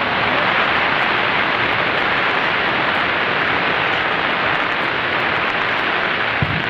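Fireworks display: a loud, steady wash of hissing crackle from bursting fireworks, with one deep boom near the end.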